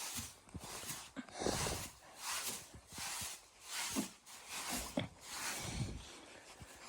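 A dog snuffling and huffing in short breathy bursts, about one a second.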